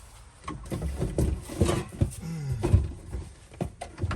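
Scattered knocks and clunks from wooden camper kitchen units being dismantled and unscrewed. A short low falling tone comes a little past two seconds in.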